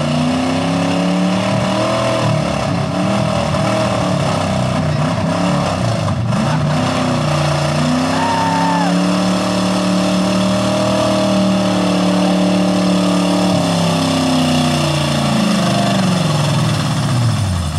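Pulling truck's engine at high revs under load as it drags a weight-transfer sled, pitch rising at the start, wavering, held high through the middle, then dropping as it lets off near the end.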